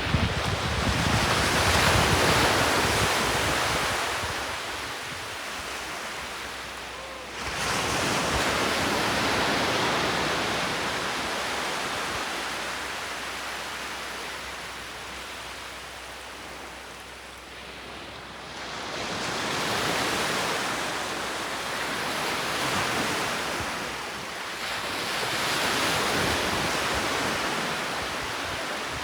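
Sea waves surging onto a shore, the wash swelling and fading four times, with a sudden jump in level about seven seconds in.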